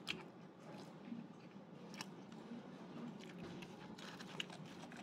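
Faint sounds of a person chewing food, with a few small clicks scattered through, over a steady low room hum.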